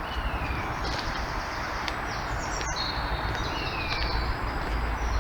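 Wild birds singing: short falling whistled notes, twice, and higher quick chirps, over a steady background hiss and low rumble.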